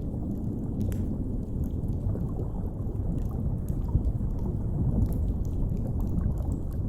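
Low, steady underwater rumble with a wood fire crackling over it: scattered sharp little pops a few times a second on top of the drone.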